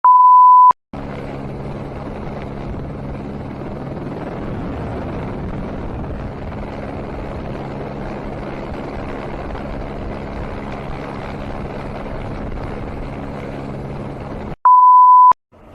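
A loud, steady electronic beep lasting under a second, then a steady vehicle drone with a low engine hum and road noise for about thirteen seconds. The drone cuts off abruptly and a second identical beep follows near the end.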